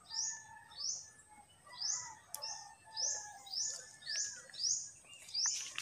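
A bird repeating a short, high, downward-sliding chirp about twice a second, with fainter, lower bird calls underneath.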